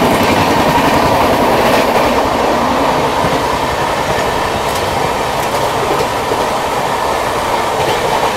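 Two passenger trains running side by side at speed, heard from an open coach doorway: a steady rumble of wheels on track with clickety-clack.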